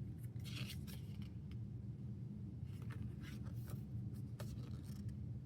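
Faint rustling and a few light clicks of album paper and card being handled, over a steady low hum.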